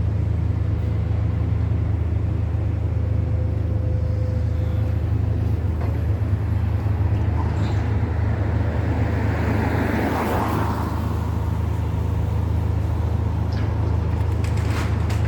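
Steady low engine rumble with a louder, noisier swell about two-thirds of the way through, and a few sharp clicks near the end.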